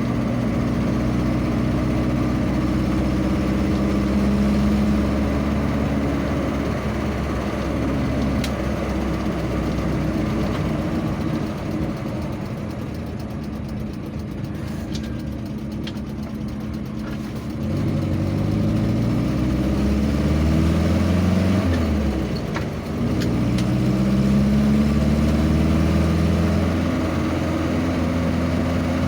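A vehicle engine running on the road. It goes quieter around the middle, then its pitch rises twice as it accelerates through the gears, with a short drop between the two climbs.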